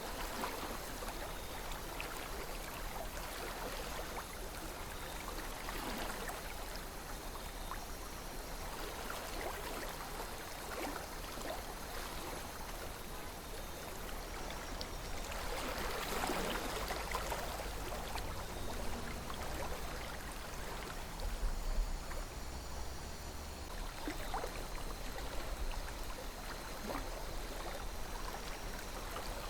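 River water flowing and babbling, with small splashes and a swell of louder flow about halfway through, over a low rumble.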